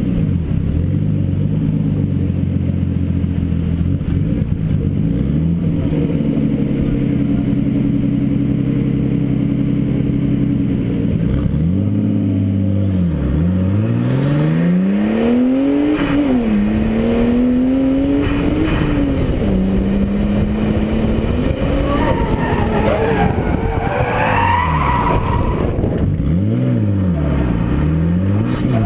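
Nissan S13 drift car's RB-series straight-six engine, heard close up from a fender-mounted camera, revving up and falling back repeatedly through gear changes. From about halfway the revs run higher, and tyres squeal during a drift in the later part.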